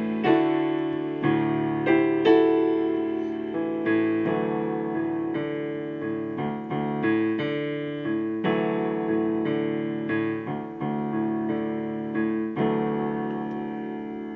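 Solo piano playing slow, held chords, a new chord struck every second or so and left to ring and fade.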